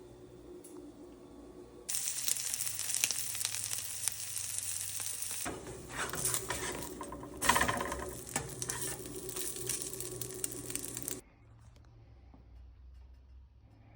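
Egg-dipped Uncrustable sandwich sizzling in a frying pan, starting suddenly about two seconds in and cutting off abruptly near the end.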